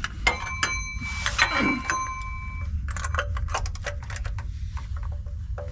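Metal tools clicking and clinking as an oil-filter wrench on a ratchet is worked to loosen a stuck oil filter, with a brief ringing metallic ping about a second in, over a steady low rumble.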